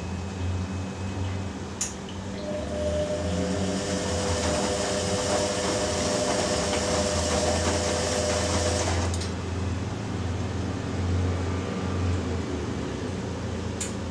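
Ariston AQXL95 washing machine running with a steady low hum; a hiss joins it a few seconds in and cuts off suddenly with a click about nine seconds in, with other single clicks about two seconds in and near the end.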